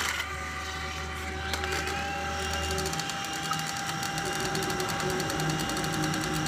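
Small electric motor and plastic gears of a toy coaxial RC helicopter whirring steadily, with a constant whine; a faint rising tone comes in about one and a half seconds in. Only the lower rotor is turning, the upper one not, which the owner puts down to a fault.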